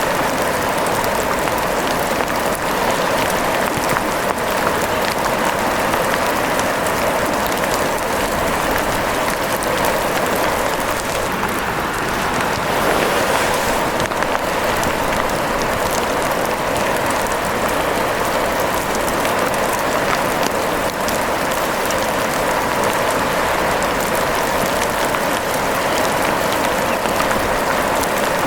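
Steady rain falling and pattering as a continuous hiss, dotted with fine drop ticks.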